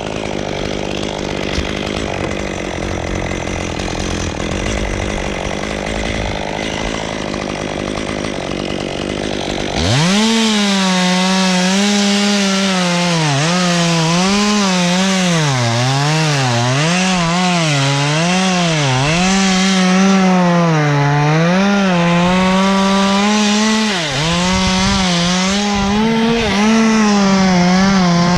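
Rough, steady machine noise, then about ten seconds in a chainsaw opens up to full throttle and cuts, its high engine note repeatedly dipping and recovering as it bogs in the wood.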